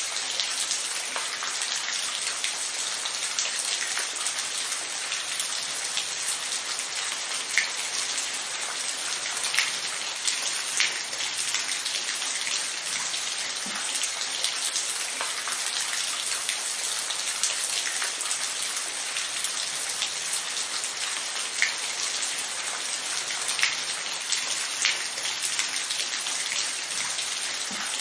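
Steady rain falling, a continuous hiss with scattered louder drop ticks now and then.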